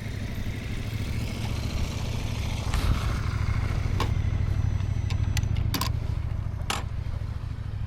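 Motorcycle engine running at low speed, with its steady low rumble swelling slightly and easing off. Several sharp clicks cut through it in the middle.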